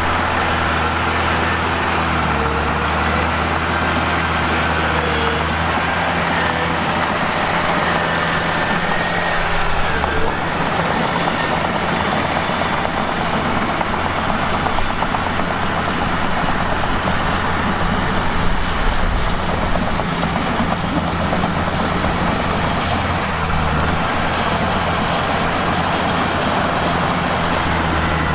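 Mitsubishi bulldozer's diesel engine running under work, steady but shifting in pitch a few times, with a rougher, noisier stretch through the middle.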